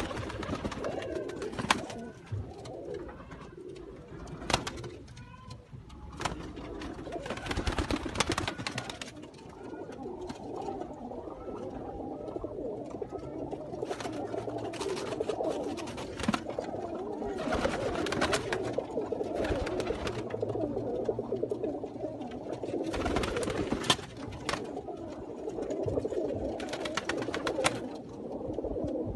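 English Tippler cock pigeons cooing continuously, with several short bursts of louder rustling noise among them.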